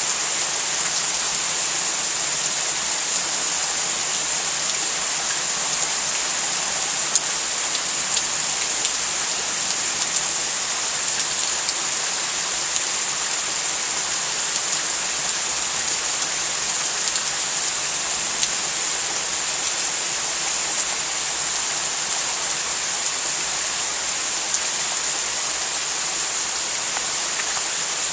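Steady thunderstorm rain falling and splashing, with a few sharper drip ticks scattered through it.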